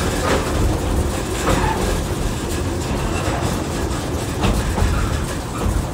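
Small narrow-gauge train running, heard from an open passenger car: a steady low rumble of the locomotive and rolling wheels, with scattered clicks and knocks from the wheels on the track.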